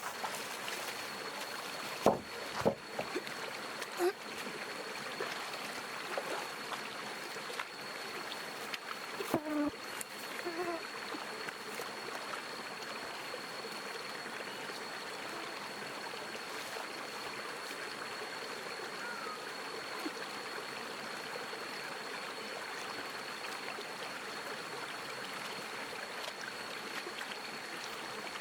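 Steady rushing of flowing water, like a nearby stream, with a thin steady high tone over it. A few sharp knocks come in the first ten seconds, the loudest about two seconds and nine seconds in.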